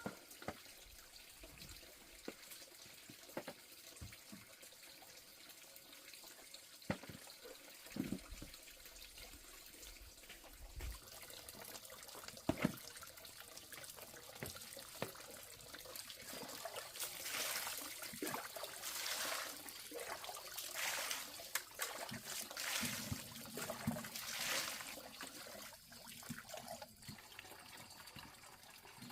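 Water trickling and splashing, with scattered knocks and clunks in the first half and repeated bursts of louder splashing over the second half.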